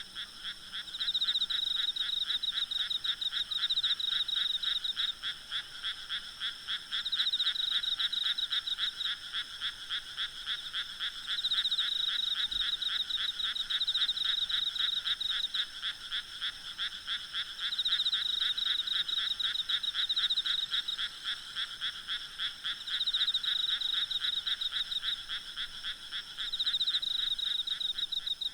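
Chorus of frogs calling in rapid pulsed trills that swell and fade in bouts every two to three seconds, over a faint steady high buzz of insects.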